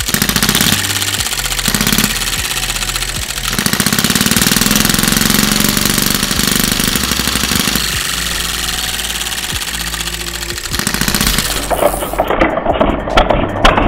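Miniature 6cc gasoline model engine running fast, a rapid steady knocking that shifts speed a little now and then. Near the end it gives way to irregular popping thumps.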